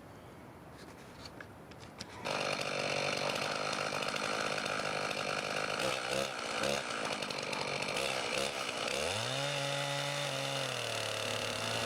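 Chainsaw cutting along the side of a maple log; it comes in abruptly about two seconds in and runs steadily, its engine pitch dipping then climbing around nine seconds in and settling lower near the end.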